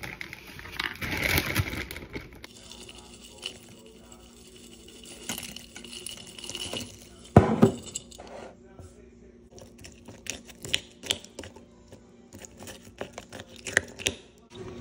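Metal spoon clinking and scraping against a ceramic bowl as yogurt, fruit and granola are stirred, in a run of sharp clicks, with one louder knock about seven seconds in.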